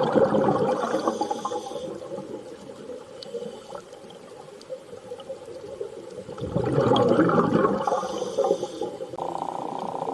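Underwater sea ambience: water rushing and bubbling in two swells, one at the start and one around seven seconds in, quieter between. A steady tone comes in near the end.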